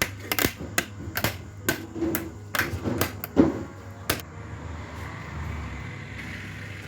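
A fridge door handle being fitted back onto the door: a quick, irregular run of sharp clicks and knocks for about four seconds, then only a light hiss.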